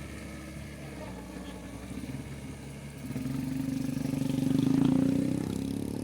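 Motorcycle engine passing close by: it grows louder from about halfway through, peaks near the end, then fades.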